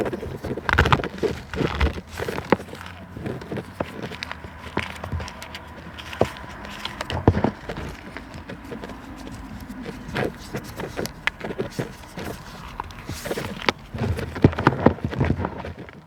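Irregular crunching and crackling of natural materials being crushed, with sharp snaps scattered throughout and denser clusters in the first two seconds and again near the end.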